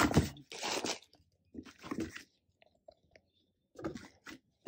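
Crunchy handling noises of cardboard packaging, in three short bursts with silence between them.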